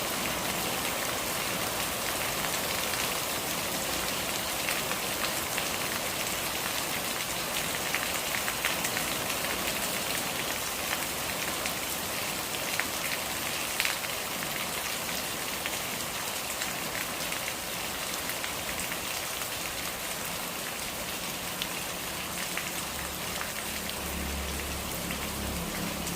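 Steady rain falling, an even hiss with scattered individual drops ticking through it. In the last few seconds a low, uneven rumble comes in underneath.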